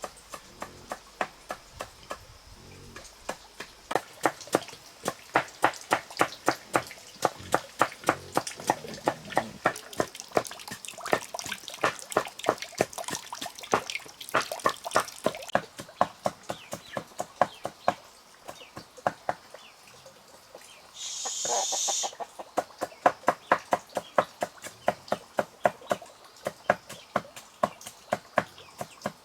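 Rapid, regular knife chops through cassava root, about three to four strokes a second. A brief hiss interrupts them about two-thirds of the way through.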